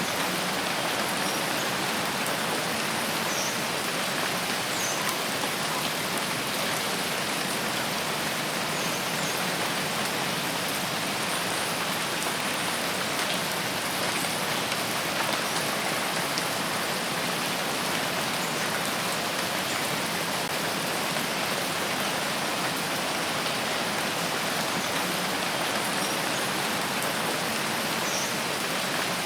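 Steady rain falling in a rain forest: an even, unbroken hiss of drops. A few faint, brief high chirps sit on top of it.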